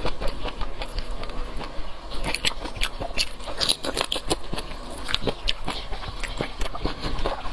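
Close-up eating sounds: many quick, irregular crackling clicks of biting and chewing food.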